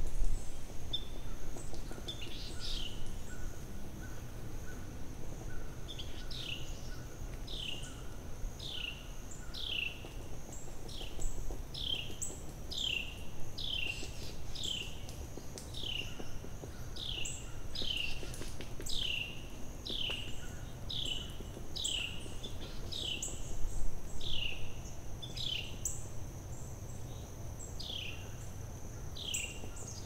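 A bird calls over and over with a short note that slides downward, starting a few seconds in and repeating about every two-thirds of a second. Under it runs a steady high-pitched insect-like buzz and a low rumble of forest ambience.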